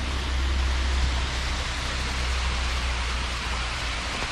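Waterfall's steady rush of falling water, with a low rumble underneath.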